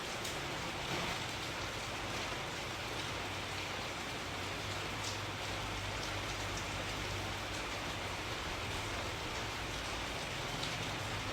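Steady rain falling, an even hiss with scattered drop ticks and a low rumble underneath.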